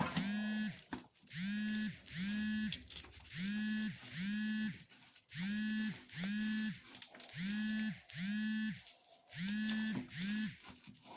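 Metal detector (TX 850) giving repeated target tones in pairs, about a pair every one and a half seconds, as the search coil is swept back and forth over metal. Each tone is short and buzzy and swells in and out.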